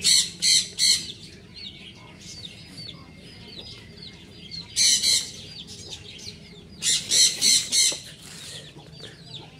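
Birds calling: loud, harsh high-pitched calls come in groups, three in the first second, one about five seconds in and four in quick succession around seven to eight seconds, over a continuous run of fainter short chirps.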